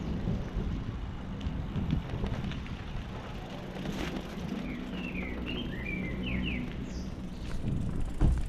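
Steady low rumble of a bicycle being ridden, with tyre and wind noise on the rider's microphone. A few quick bird chirps come through near the middle.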